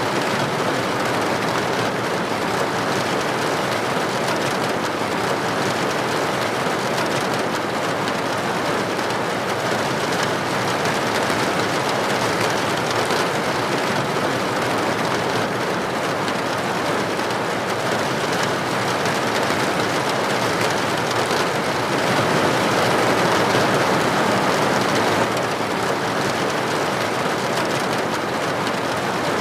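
Steady, dense rain pattering on a window or roof, a continuous even hiss of drops. It swells slightly about three-quarters of the way through, then drops back suddenly.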